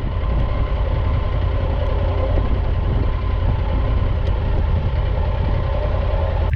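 A vehicle engine running steadily, with a deep low rumble and a faint constant hum above it.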